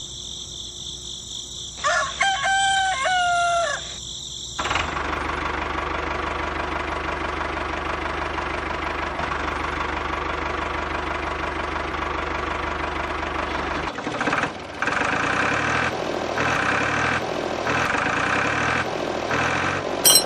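A rooster crows once, about two seconds in. After it comes a steady mechanical noise with a low hum, which from about two-thirds of the way through pulses with short breaks.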